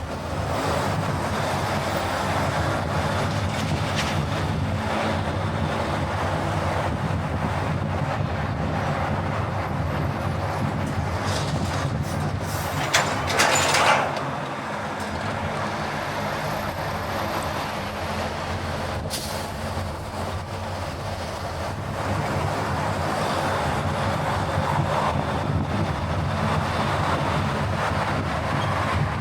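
Steady road and engine noise of a car driving. A brief, louder hiss about thirteen seconds in.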